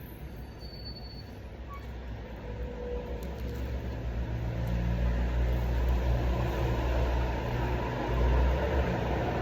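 Low rumble of a motor vehicle engine, growing louder about four seconds in and then holding steady.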